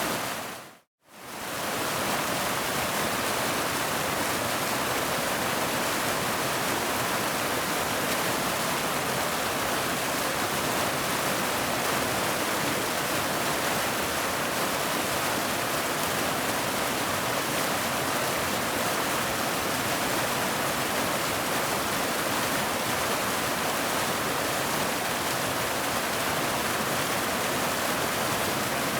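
Waterfall: steady, even rush of falling water. About a second in it fades out to silence for an instant and comes straight back.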